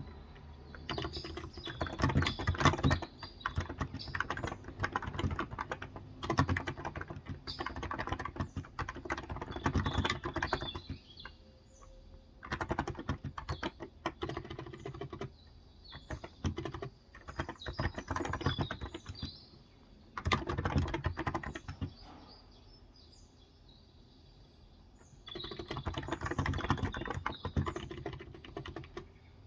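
Fast typing on a Cox Endeavor electrostatic capacitive tenkeyless keyboard with 35 g switches, in bursts of clicking broken by short pauses, the longest a few seconds past the middle. Birds chirp faintly in the background.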